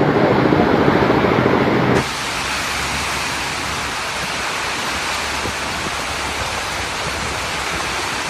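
A motor vehicle's engine running for about two seconds, then an abrupt cut to a steady rushing of fast-flowing floodwater.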